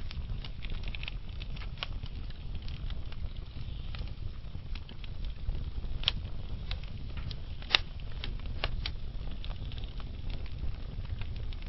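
Wood fire burning steadily with a low rumble and irregular crackles and pops, the loudest pops about six seconds and nearly eight seconds in.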